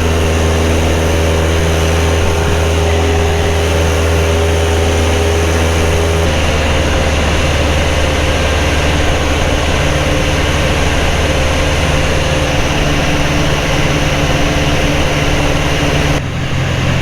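Carbon Cub light aircraft's piston engine and propeller running steadily in flight. The engine note changes and drops about six seconds in, and shifts again near the end.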